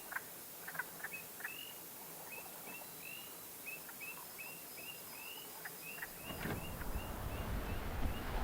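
A small animal's call: short rising chirps repeated steadily, about two to three a second, with a few light knocks near the start. From about six seconds in, a rushing noise builds and grows louder.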